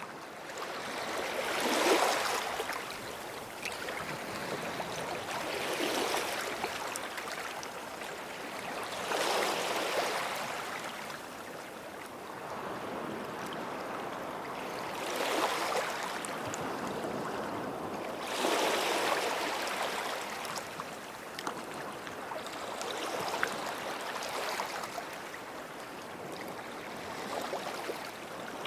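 Sea waves washing up on the shore, in surges of hiss that swell and fade every three to six seconds.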